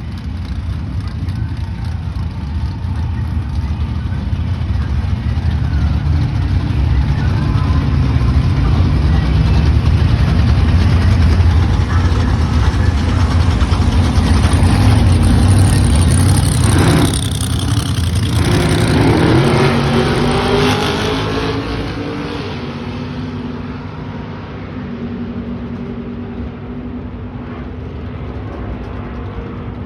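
1956 Chevrolet Bel Air race car's engine running, growing louder. About 17 seconds in it drops out for a moment, then climbs in pitch as it revs up again. After that it settles back to a steadier, quieter note.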